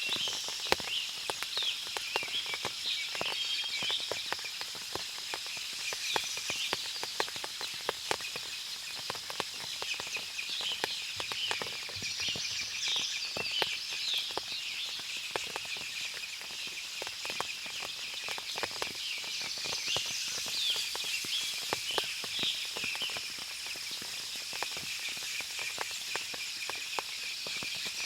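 Forest ambience after rain: birds chirping on and off over a steady high-pitched drone, with many small scattered ticks like water dripping from leaves.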